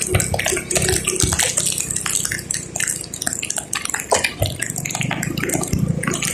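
Rain striking a moving car, many irregular taps over a steady hiss.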